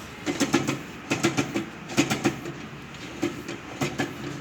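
Sewing machine mechanism being turned over, knocking in a rhythm of short clacks, often two at a time, under a second apart. The knock comes from the corner of a tightened collar on the main shaft striking the machine body.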